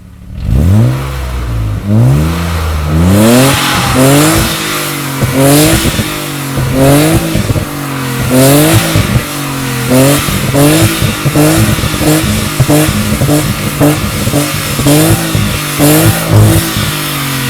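BMW E34 engine and exhaust starting up, then revved again and again in short blips, each rising and dropping back to idle, the later blips quicker.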